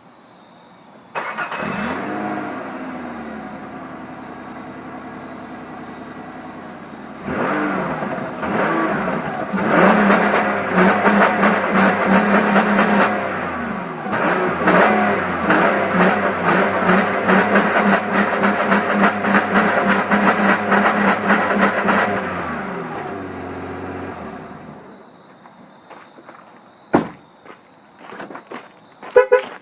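A 2003 Mazda Tribute's 3.0-litre V6 cranks and catches about a second in, then settles to idle. About seven seconds in it revs up higher and louder and holds there for some fifteen seconds. It then drops back and shuts off about twenty-five seconds in, followed by a few sharp clicks.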